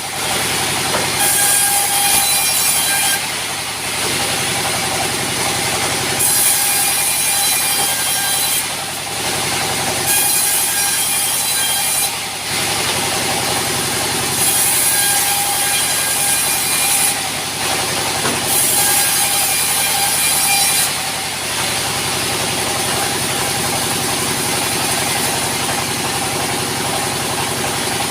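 Sawmill saw running steadily. Its blade rasps through wood in about five separate cuts of roughly two seconds each. The cutting stops about 21 seconds in and the machine keeps running.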